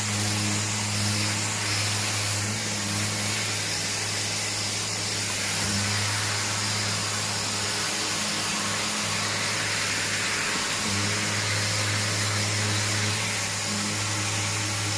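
Power sander with dust extraction running steadily: a constant hum under an even hiss, with no pauses.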